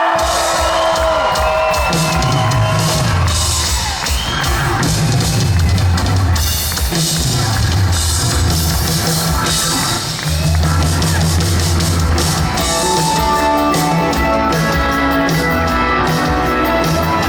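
Live rock band playing an instrumental passage: drum kit and a moving bass line, with a held guitar or keyboard line coming in about twelve seconds in.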